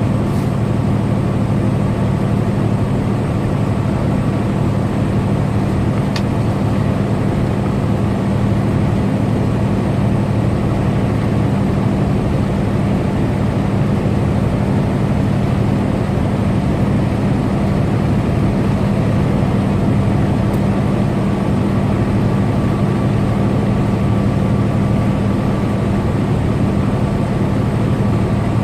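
Tractor-trailer truck cruising at highway speed: a steady engine drone with constant road noise.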